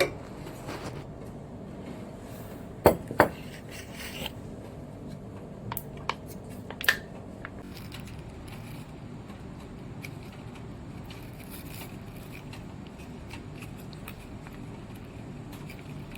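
A few sharp knocks and clicks, two close together about three seconds in and a few more around six to seven seconds, over steady low room noise.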